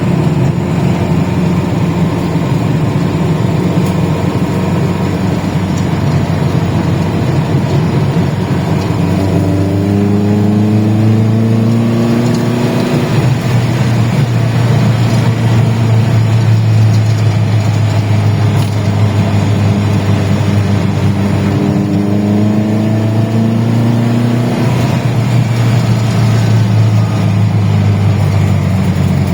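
Suzuki Jimny Katana engine running through a used HKS aftermarket muffler, with a deep exhaust note. It idles steadily, is revved up twice in slow climbs, about a third of the way in and again later on, and drops back to idle near the end.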